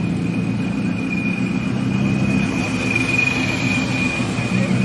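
A car engine running steadily, with a thin, steady high-pitched whine above it.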